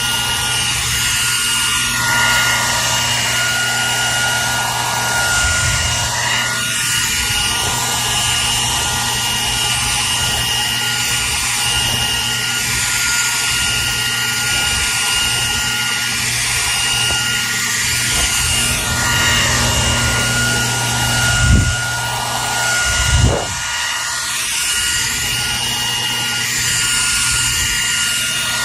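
Hair dryer running steadily: a constant rush of blown air with a thin motor whine over a low hum. Two brief low thumps come about three quarters of the way through.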